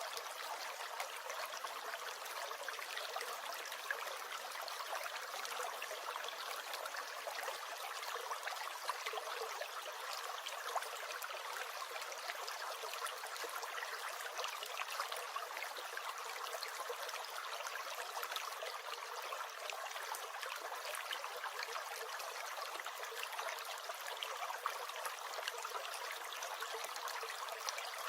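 A small stream gurgling and trickling steadily: an even rush of water full of fine splashes, with no deep rumble.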